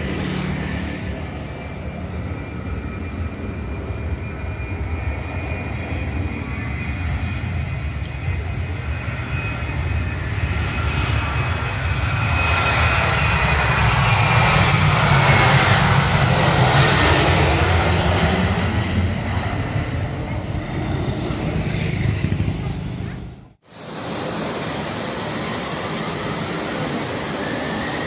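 Airliner engines running as a plane passes: a low rumble with a whine falling in pitch, swelling to its loudest just past the middle. About 23 seconds in the sound cuts off abruptly and another engine rumble begins, its whine rising in pitch.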